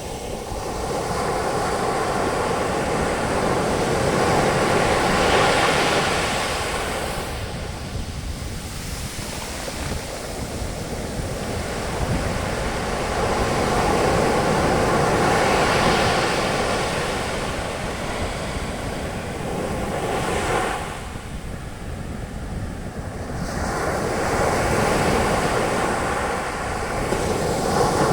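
Ocean waves breaking and their foam washing up the shore, swelling and fading in about four slow surges over a steady low rumble of surf.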